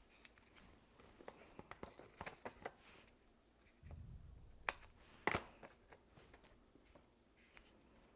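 Faint handling sounds of paper-crafting: a stamped cardstock bird and a foam adhesive dimensional being fitted and pressed onto a card, with light ticks and taps. A low dull thump about four seconds in is followed by two sharp clicks.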